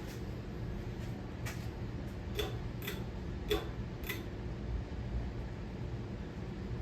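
Hampton Bay Gazebo 52-inch ceiling fan running with a steady low hum. About five sharp ticks come at irregular intervals in the middle.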